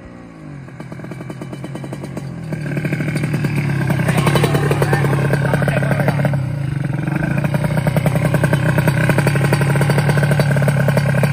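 Tuned two-stroke Kawasaki Ninja drag-bike engine running loud and steady close by, with the bike held on the spot during setup. Before it, a faint motorcycle note falls away in the first second or so. The near engine comes up loud about two and a half seconds in.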